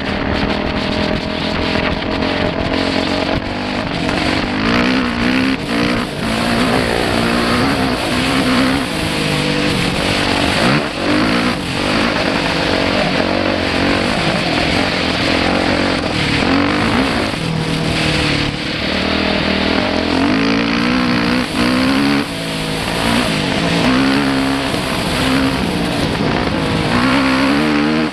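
Dirt bike engine being ridden, its revs rising and falling again and again as the throttle is worked, over a steady rush of noise.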